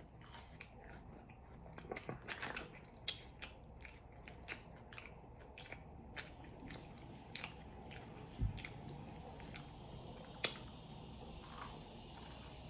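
Faint chewing and biting of fried green bean fries, with scattered small crunches and mouth clicks.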